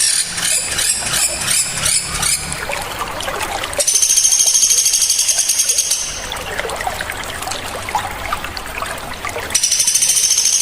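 Songbird calls of the kind played to train caged birds: quick repeated high, sharp notes at the start, then a fast, dense, high-pitched trill about four seconds in that lasts some two seconds and comes again near the end, over a steady background hiss.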